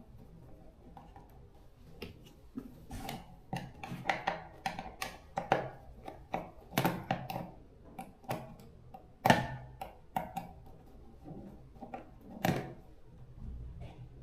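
Irregular clicks, knocks and clatter of hand tools and metal parts being handled while working on an electric fan motor, with the sharpest knock about nine seconds in.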